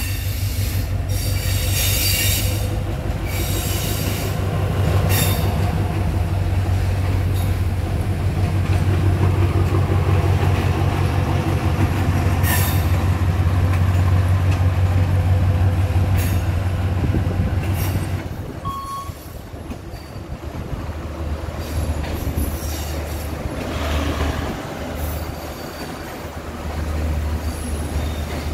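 Diesel passenger train running past on the tracks below: a steady low engine drone with wheels squealing and clicking over the rails. It gets clearly quieter about two-thirds of the way through as the train moves away.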